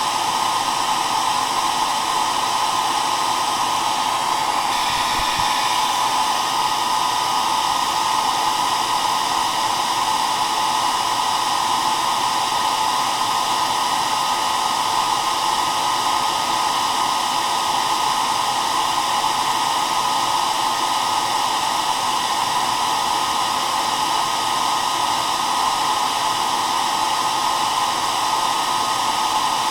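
Hair dryer running steadily: an even rush of air with a whine centred around 1 kHz.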